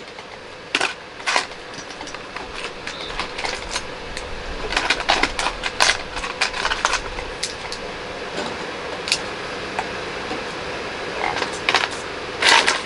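Plastic LEGO bricks clicking and rattling as pieces are picked up and snapped together: irregular sharp clicks, busiest about five to seven seconds in.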